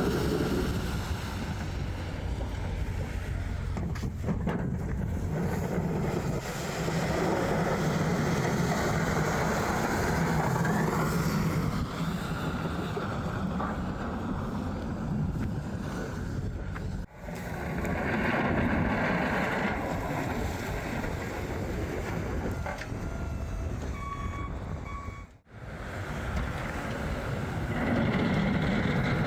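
Plow truck driving through snow, heard from inside the cab: a steady engine hum with road and wind noise. The sound drops out briefly twice, and a short beep sounds near the end.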